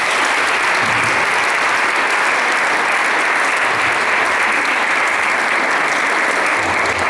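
Congregation applauding, a dense, steady clapping that holds at full strength throughout.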